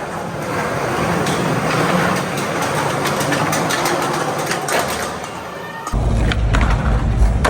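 Skateboard wheels rolling on pavement, a steady rolling noise with scattered clicks. About six seconds in it changes abruptly to a much louder low rumble.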